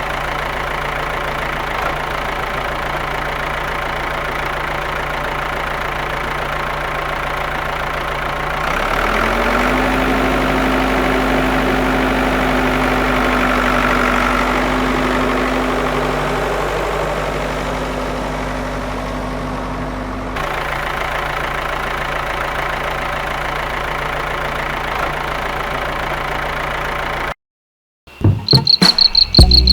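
Mini tractor engine sound, idling steadily. From about 9 to 20 seconds it runs a little louder, with an added higher steady tone. Near the end it cuts off suddenly and a fast, high, insect-like chirping begins.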